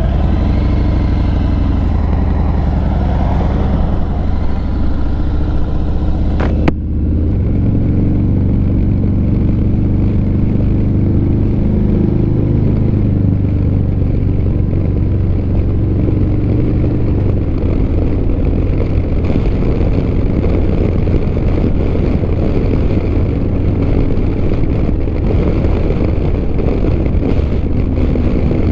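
Motorcycle engine pulling away and accelerating, then running on steadily at road speed under heavy low wind rumble. A single sharp click comes about seven seconds in.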